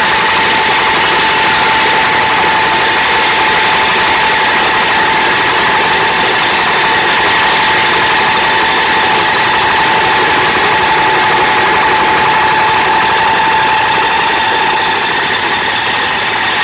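Changchai 25 horsepower self-start diesel engine running steadily, with a constant whine over the engine note.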